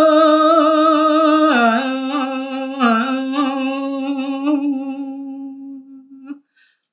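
Solo voice singing a long, held, ornamented note of a Balinese tembang in pupuh Sinom, wavering slightly, with two brief dips in pitch. The note fades out near the end.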